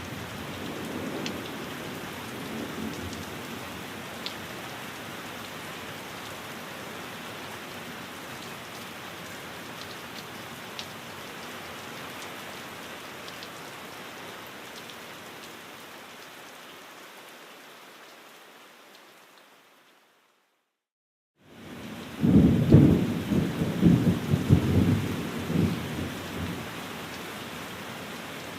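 Steady rain with a low rumble of thunder, fading out to complete silence about two-thirds of the way through. The rain cuts back in a second and a half later with a loud, rolling thunderclap that lasts a few seconds, then settles back to steady rain.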